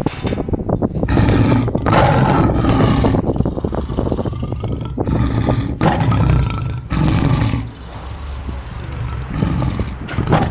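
Tiger roaring and growling, a run of loud, rough calls about a second long each with short breaks between them.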